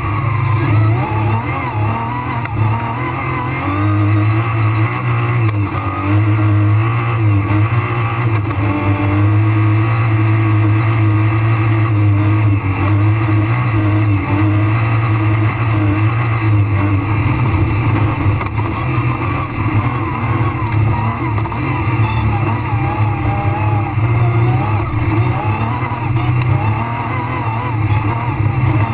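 Rally car engine running hard at speed, heard from inside the cockpit, its revs rising and falling as it is driven through the stage.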